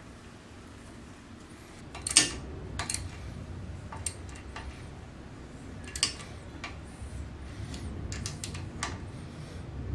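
Metal parts of an old lathe clinking and knocking as they are handled and fitted: about eight sharp knocks, the loudest about two seconds in, over a low rumble that comes in about two seconds in.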